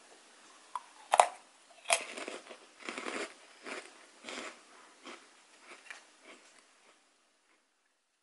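A crisp, dry French meringue cookie bitten with two sharp crunches, then chewed with a run of softer crunches about one and a half a second, fading out.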